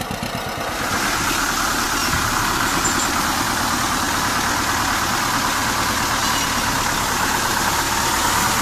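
Tractor engine running steadily, the sound growing louder and fuller with a steady hiss from about a second in.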